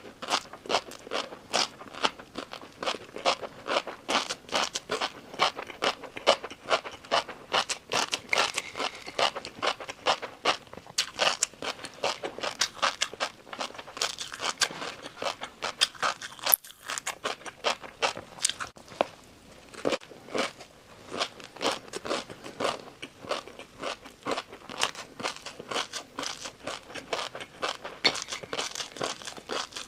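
Close-miked chewing of a crunchy noodle dessert: a fast, dense run of crisp crunches, with a brief pause a little past halfway.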